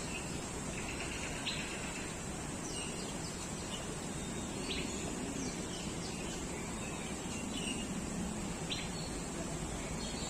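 Small birds in a walk-through aviary giving short, scattered chirps, over a steady high-pitched hiss and a low background rumble.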